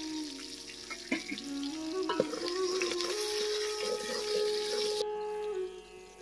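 Garlic, onion and dried red chillies sizzling in hot oil in an aluminium pot, with a steel ladle clinking against the pot a few times as they are stirred. The sizzle cuts off suddenly about five seconds in. Background music plays throughout.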